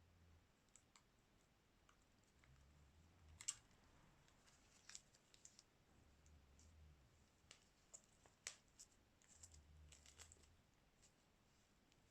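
Near silence broken by faint, scattered small clicks and ticks of hand work on a smartphone during a screen replacement, the sharpest about three and a half and eight and a half seconds in.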